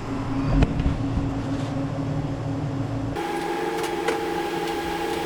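Steady mechanical hum, with a loud knock about half a second in. About three seconds in it switches abruptly to a different, higher-pitched hum.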